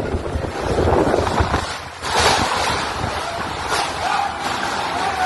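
Strong wind with rushing water, wind buffeting the microphone. The noise dips briefly just before two seconds in, then comes back louder.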